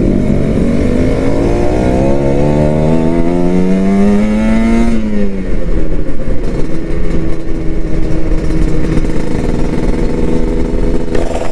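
Kawasaki Ninja 150 RR motorcycle's two-stroke single-cylinder engine revving up under acceleration, its pitch climbing for about five seconds. The pitch then drops sharply and the engine runs on at steadier, lower revs.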